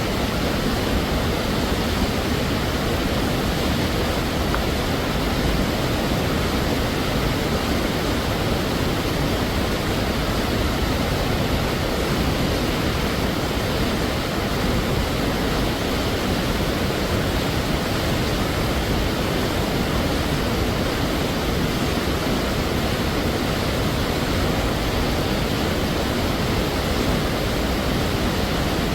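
Waterfall: a steady, unbroken rush of falling water, full from a low rumble up to a hiss, with no change in level.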